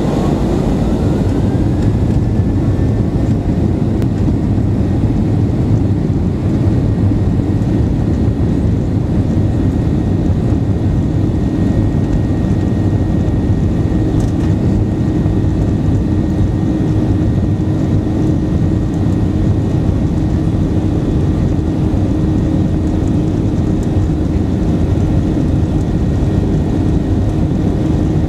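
Boeing 737-800's CFM56-7B jet engines at high power: a whine rises over the first couple of seconds as the engines spool up, then holds steady over a loud, continuous rumble.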